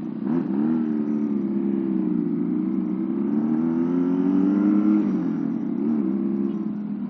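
Custom two-cylinder engine of a modified Honda Astrea Prima underbone motorcycle running on the road. Its pitch rises about a second in, climbs again to a peak around five seconds in, then drops back.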